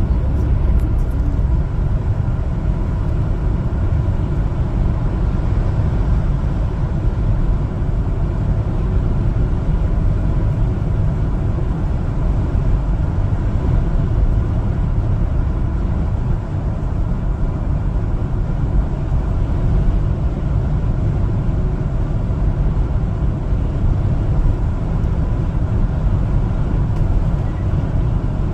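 LPG-fuelled one-ton cargo truck driving on the road, a steady low engine and road rumble that holds even throughout.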